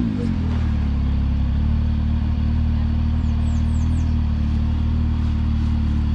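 Side-by-side UTV engine coming down off a rev just at the start, then idling steadily.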